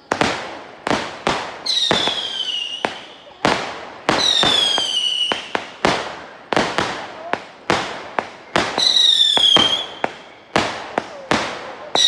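Fireworks going off: a quick, irregular string of sharp bangs, about one or two a second, with three whistling shells whose shrill whistle falls slightly in pitch.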